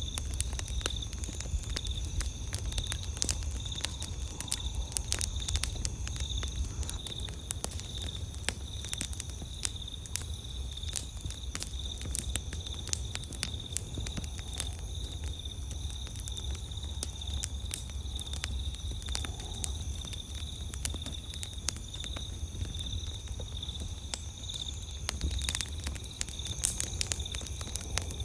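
Wood campfire crackling, with frequent irregular sharp pops over a low steady rumble. Night insects trill throughout in a steady high, evenly pulsing chirp.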